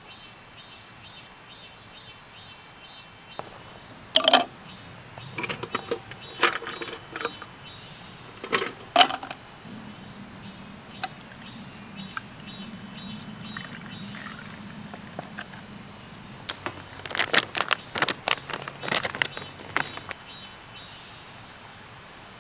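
Sharp knocks and clatters of objects being handled, loudest in a cluster near the end, over a faint chirping that repeats about twice a second.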